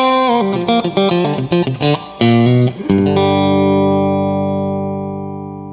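Electric guitar music: a quick run of plucked notes, then a chord held and slowly fading away.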